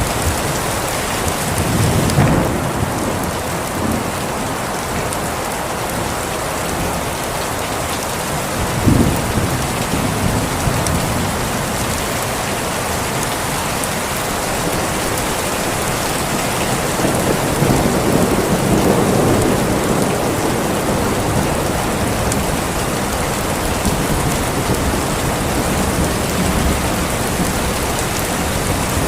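Steady rain with thunder rumbling low three times: about two seconds in, about nine seconds in, and a longer roll from about seventeen to twenty seconds in.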